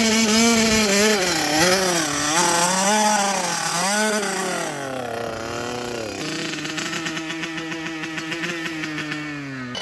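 Mini bike's small engine running under a rider, its pitch rising and falling again and again as the throttle is worked on and off, then settling to a steadier, lower note about six seconds in.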